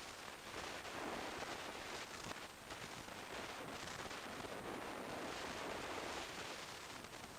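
Steady rushing wind noise on the camera microphone of a Kawasaki Z1000SX motorcycle riding at expressway speed, rising and falling slightly, with no clear engine note standing out.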